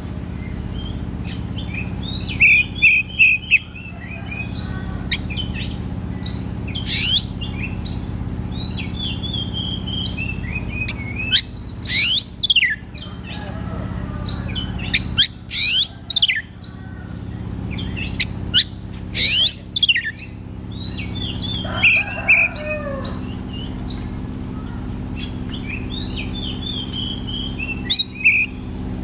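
Oriental magpie-robin (kacer) singing loudly in its full song, phrases of quick whistles with sharp rising and falling notes coming again every few seconds. A steady low hum runs underneath.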